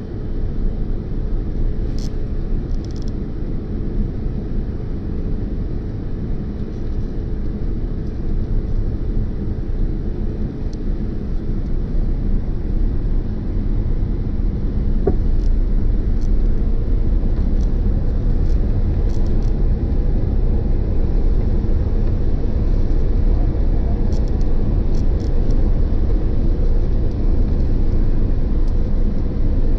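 Airliner cabin noise on the landing approach: a steady low rumble of engines and airflow that grows somewhat louder about halfway through.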